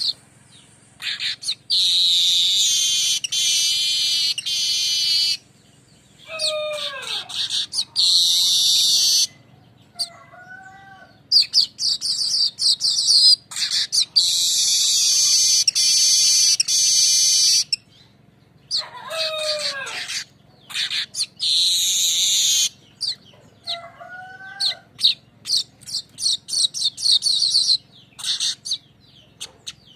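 Weaver bird (manyar) song: long, high, buzzy rolling trills broken by chattering chips, with two downward-sliding calls in the pauses.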